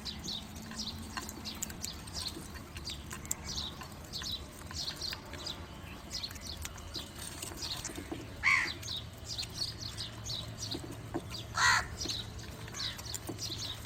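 A crow cawing twice, two loud single caws about three seconds apart, over the steady chirping of small birds, many short falling notes several times a second.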